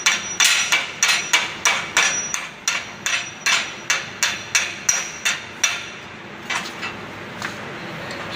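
A hammer striking a freshly MIG-welded steel plate to knock off weld spatter while it is still hot. It strikes steadily about two to three times a second with a bright metallic ring, then slows to a few lighter taps near the end.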